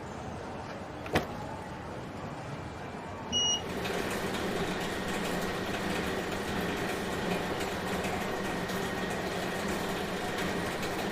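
A sharp click, then a short electronic beep about three and a half seconds in, after which a luggage-wrapping machine starts and runs steadily with a low hum and a faint whine as it winds film around a suitcase.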